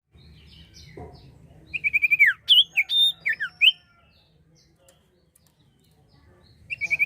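Sirtu songbird singing: a quick run of repeated high chirps that ends in a falling note, then several short whistled notes, lasting about two seconds. A brief low thump comes near the first second.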